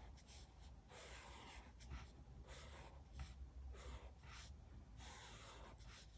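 Soft paper-crafting sounds at a desk: a series of short, quiet rustles and scratches of paper and stickers being handled on a diary page.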